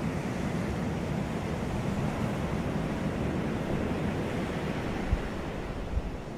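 Sea surf washing onto a beach: a steady rush of waves that eases off slightly toward the end, with two brief low thumps near the end.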